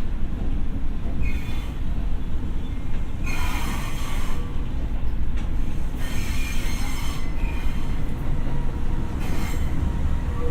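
Former Tokyo Metro 6000 series electric train running with a steady low rumble. Four short bursts of wheel squeal and hiss from the rails rise over it, about a second in, around the middle and near the end.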